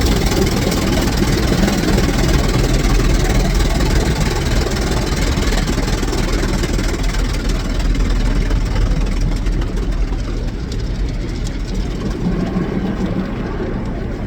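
Automatic tunnel car wash heard from inside the car: a loud, steady rushing of the wash equipment working over the car. The hiss thins out in the last few seconds.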